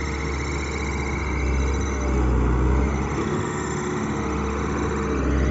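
Diesel engine of a JCB 3DX backhoe loader running under work with a steady low rumble. It swells louder about one and a half seconds in, eases back about three seconds in, and rises again near the end.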